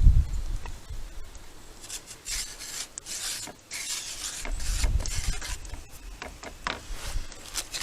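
Hands rubbing and scraping flour across a work surface in irregular, dry rasping strokes.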